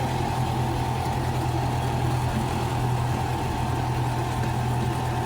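Zoo ride-on train's engine running steadily, a low hum with a steady higher whine above it.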